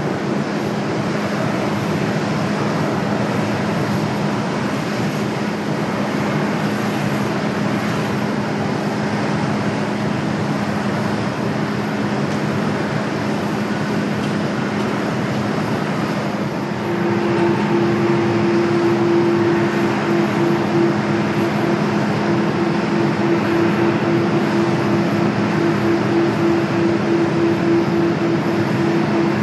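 Jet airliner engines running, a steady roar with a low hum; about 17 seconds in a second, higher tone joins and the roar gets somewhat louder.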